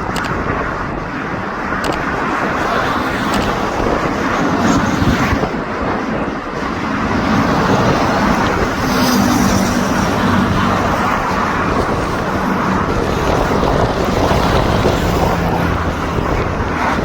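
Airbus A320 on its landing approach: a steady, loud rush of engine and airflow noise with a low hum that shifts slightly in pitch.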